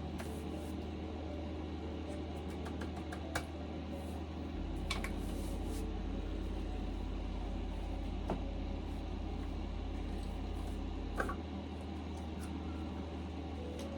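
Steady low hum of a small garage, with a few light metallic clicks, about one every three to four seconds, as the motorcycle's cylinder barrel is worked down over the piston and rings.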